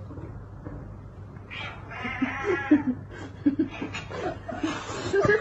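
A domestic cat giving a series of short meows, starting about two seconds in and growing louder toward the end, over a steady low hum.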